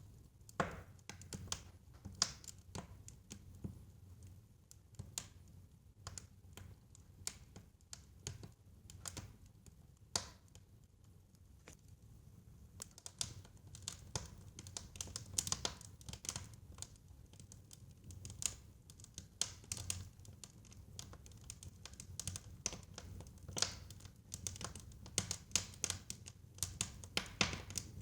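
Wood fire in a fireplace crackling, with irregular sharp pops and snaps, thicker in stretches, over a steady low rumble of the flames.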